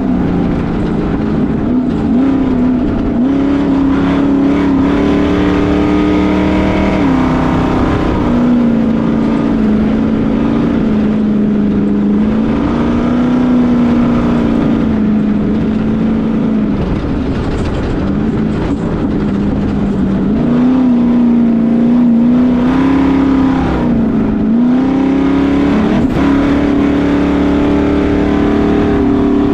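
Ultra4 race car's LQ4 V8 engine running hard under way, its pitch holding steady, then dropping and climbing back several times as the throttle and speed change.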